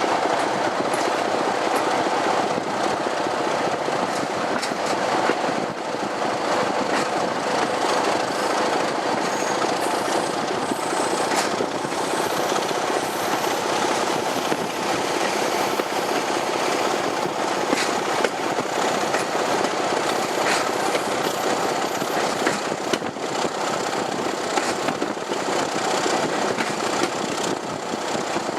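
Preserved diesel train running along the line: a steady loud rumble of wheels on rail, with clatter and frequent sharp clicks throughout.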